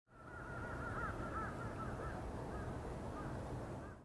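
Birds calling, a flurry of short chirping calls thickest in the first two seconds, over faint steady outdoor ambience; the sound fades in at the start.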